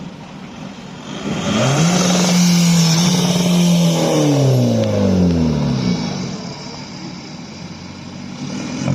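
A car engine revs up about a second and a half in and holds high for about two seconds. Then its pitch falls away steadily and fades, as if the car is pulling off past the listener, with a brief rev again near the end.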